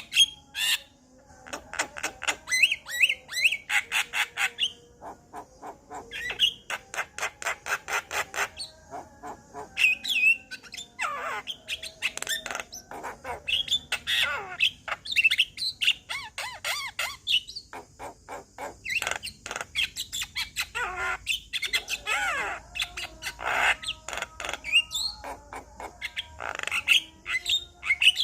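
Male Javan myna singing: runs of rapid clicking notes mixed with harsh squawks and rising and falling whistles.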